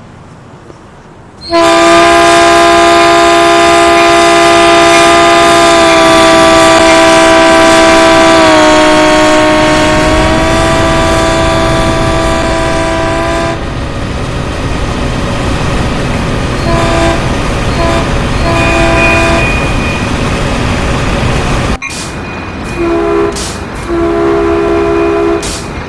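Caltrain train's multi-tone air horn sounding one long blast about a second and a half in. The pitch drops partway through as the train passes. The train then rumbles by, with a few short horn toots near the end.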